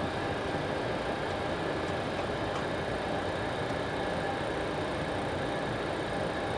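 Steady rushing in-flight noise in the cockpit of an MD-80 airliner, with faint steady high-pitched tones running through it.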